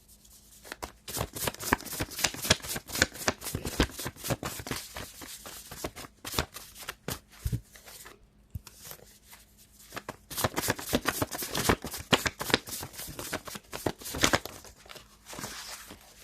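Tarot cards shuffled by hand: two bouts of rapid, dense card clicks, the first from about a second in to about seven seconds, the second from about ten seconds in to about fourteen.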